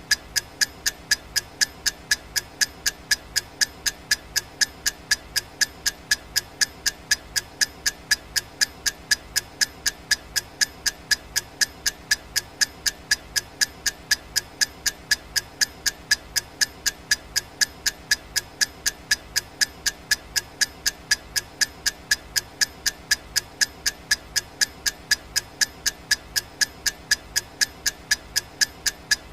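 Clock-ticking sound effect of a countdown timer: sharp, evenly spaced ticks, about three a second, going on steadily without a break.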